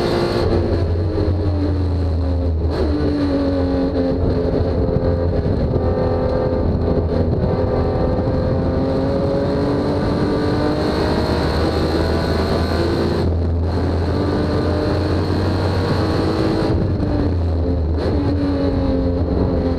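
Honda J35 V6 race car engine running hard on track, its pitch climbing under acceleration and dropping on lifts and gear changes several times over a steady low rumble.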